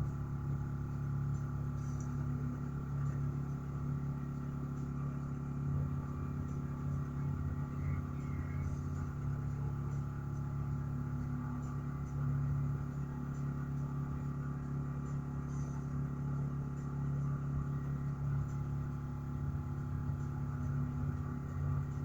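Dual-head air compressor running steadily, a constant low hum, as it builds pressure toward 200 PSI.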